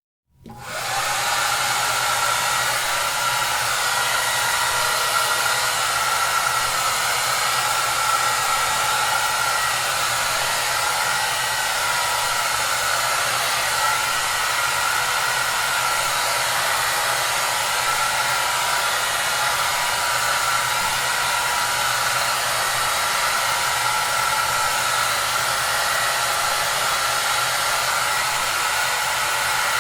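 Hair dryer running steadily, a constant rushing hiss with a faint steady whine under it, played as white noise. It comes in abruptly within the first half second, after a moment of silence.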